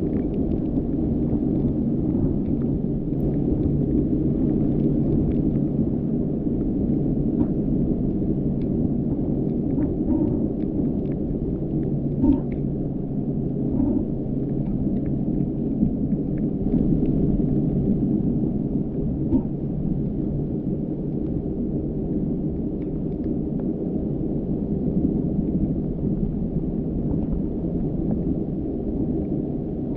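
Car driving: a steady low rumble of engine and road noise, with scattered light ticks.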